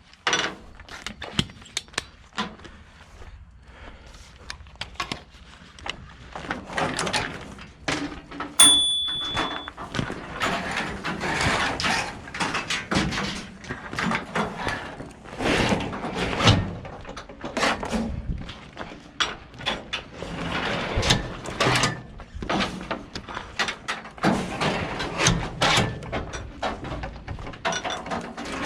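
Irregular clanks, knocks and scraping of metal equipment being worked by hand, with one loud bang about eight seconds in that leaves a brief ringing tone.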